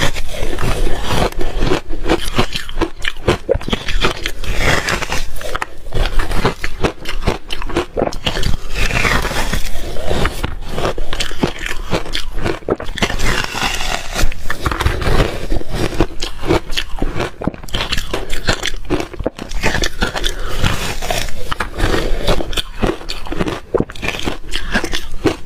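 Close-up crunching of reshaved refrigerator ice being bitten and chewed: a dense, continuous run of sharp cracks and grinding crunches with no pause.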